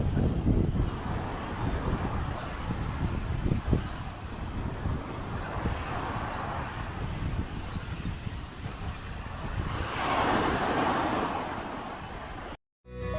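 Wind buffeting the microphone, a heavy low rumble under a broad rushing noise that swells twice. It cuts off abruptly near the end.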